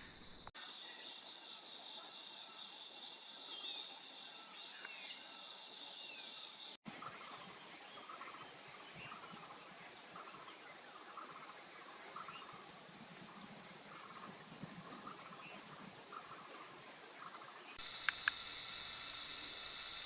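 A dense chorus of insects such as crickets or cicadas: a steady, high-pitched trill that breaks off abruptly twice as the recording jumps. Under it, a softer, lower note repeats about once a second.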